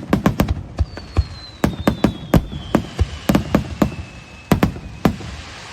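Fireworks going off in a rapid, irregular string of sharp bangs, a dozen or more. A thin whistle slowly falls in pitch from about a second in until near the end.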